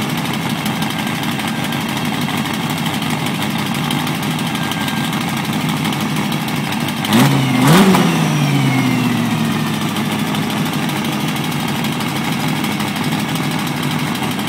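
Ford GT40's V8 engine idling steadily, then blipped twice in quick succession about halfway through, the revs rising sharply and falling back slowly to idle.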